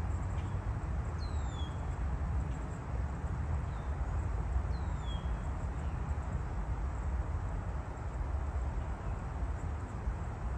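Steady low outdoor rumble with a few short, high bird calls that slide downward, the clearest about a second and five seconds in.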